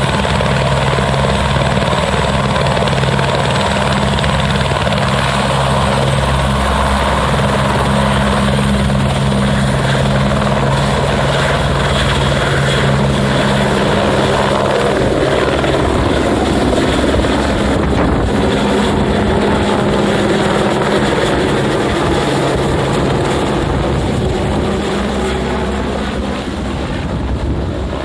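Helicopter running: a steady low rotor tone with a high turbine whine above it, growing fainter near the end.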